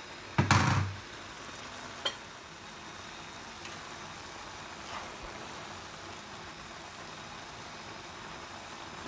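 Pancit noodles sizzling in a hot frying pan as they are stirred and tossed with chopsticks. A brief loud thump comes about half a second in.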